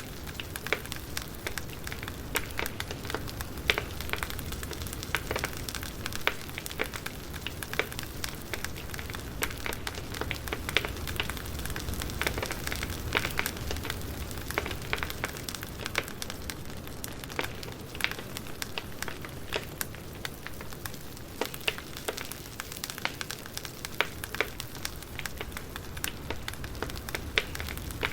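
Burning firewood crackling steadily, with many irregular sharp pops and snaps over a soft, low rumble.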